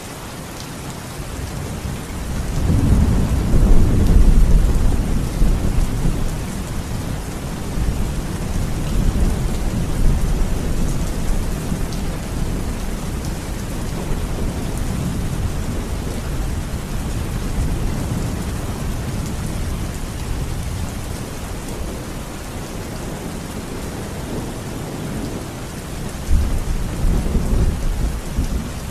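Steady rain with rolling thunder: a deep rumble builds a couple of seconds in, is loudest around four seconds, and fades slowly, and a second, shorter rumble comes near the end.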